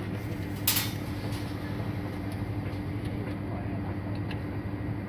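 A steady low rumble with a hum, and one sharp click about two-thirds of a second in.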